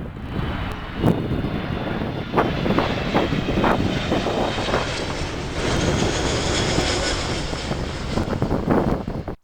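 Jet airliner's engines, a loud steady rush with a high whine running through it. Gusts of wind buffet the microphone.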